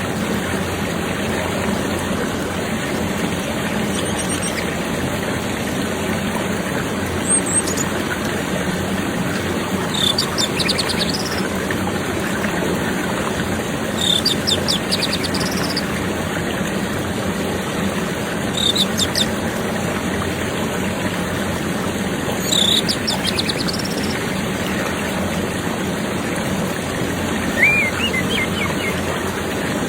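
Orange-headed thrush song: short, high, rapid phrases repeated about every four seconds, with a lower call near the end, over a steady background of flowing water.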